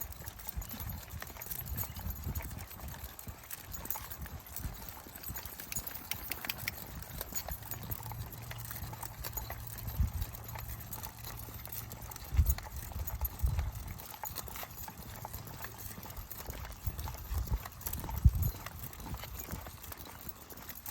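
Footsteps on a dirt trail while walking, with a low rumble of handling or wind on the microphone and a few louder thumps, the loudest near the end.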